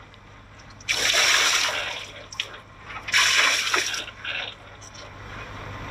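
Water rushing and splashing in two surges of about a second each, over a faint steady low hum.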